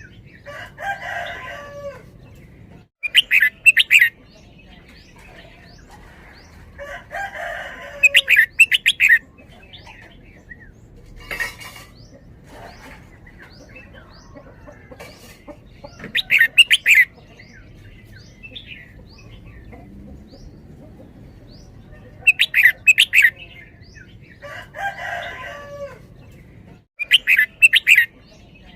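Red-whiskered bulbul singing: loud bursts of quick fluty notes about every five to six seconds, with softer warbled phrases between them. Faint high chirps of other small birds carry on throughout.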